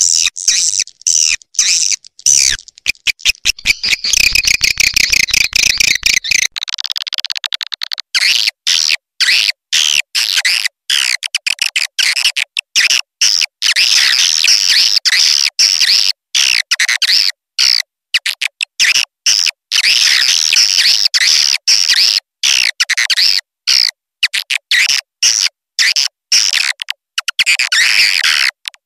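Swiftlet lure call recording: a dense, high twittering chatter of swiftlets, chopped by many short silent gaps. This is the kind of 'sky call' track played from speakers to draw edible-nest swiftlets to a swiftlet house.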